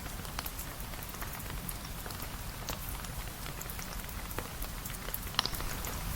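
Steady rain falling, with scattered sharp ticks of drops and a louder click a little over five seconds in.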